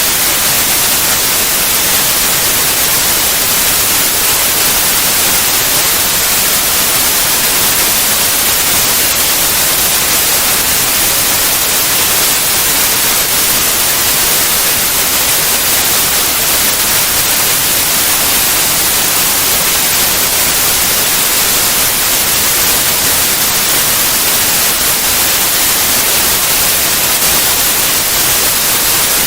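Steady white noise: an even, unchanging hiss that grows brighter toward the highs, with no variation.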